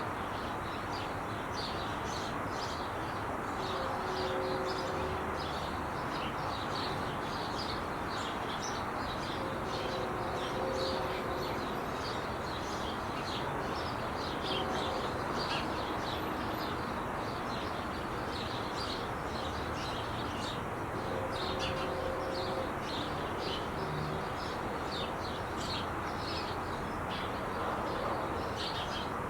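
Steady roar of traffic on the 5 freeway, with many small birds chirping throughout.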